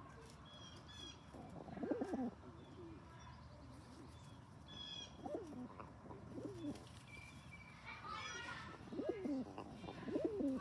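Domestic pigeon cooing, with a low rising-and-falling coo every few seconds and twice in quick succession near the middle. Higher, thin chirps come in between the coos.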